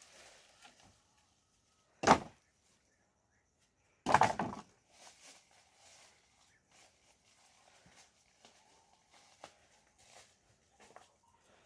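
Two loud knocks, a short one about two seconds in and a longer, heavier one about two seconds later, among faint scattered clicks and rustling.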